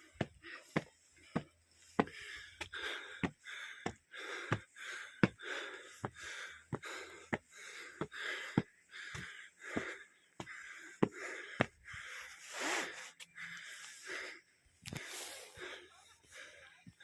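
A person breathing hard while walking, with footsteps landing about every 0.6 s and breaths between them; two longer, louder breaths come near the end.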